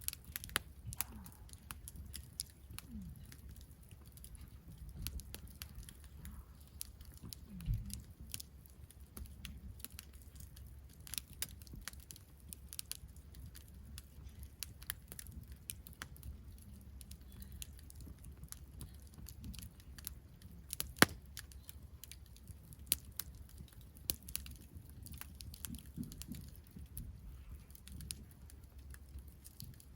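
Wood campfire crackling, with scattered irregular pops and snaps and one louder snap about two-thirds of the way through.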